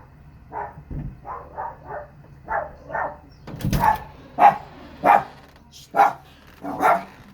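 A dog barking repeatedly, the barks getting louder in the second half. A heavy thump comes about three and a half seconds in.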